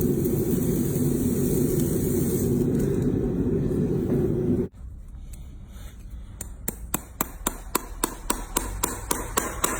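A steady low rumble cuts off abruptly about halfway. After a short gap, a metal hammer starts striking in an even rhythm, about two or three blows a second with a slight ring, as when shoeing a hoof.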